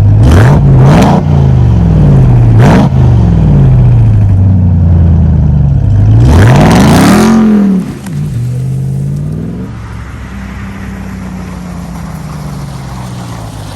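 Ram TRX's supercharged 6.2-litre V8 accelerating hard, its pitch climbing and dropping at each upshift over the first few seconds. It revs up again about six seconds in, then eases off near eight seconds and runs on more quietly at a steady pitch.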